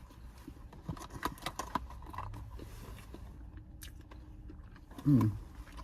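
Shellfish being eaten by hand: scattered small clicks and crackles of shells being picked apart, with chewing. A short voiced hum falls in pitch about five seconds in.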